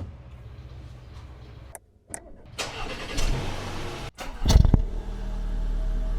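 Audi A4 35 TFSI's 2.0 TFSI turbocharged four-cylinder engine heard in short clips. It hums low at first, then rises for a second or so. About four and a half seconds in, a loud burst settles into a steady idle.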